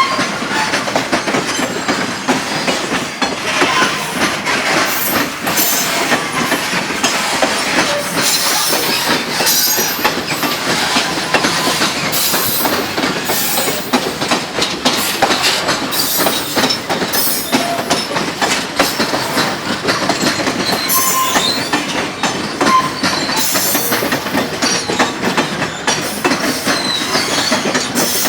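Freight train wagons rolling past, their wheels clattering steadily over the rails, with a few brief high-pitched wheel squeals.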